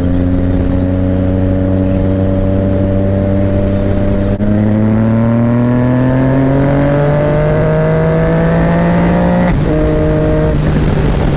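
Yamaha MT-09's three-cylinder engine pulling the bike along in gear. The note holds steady, dips briefly about four seconds in, then rises gradually as the revs climb for about five seconds, and drops sharply with an upshift near the end.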